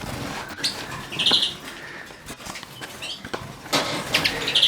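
Caged finches chirping in short, scattered calls, twice clearly about a second in and near the end, with small clicks and wing fluttering in the cages.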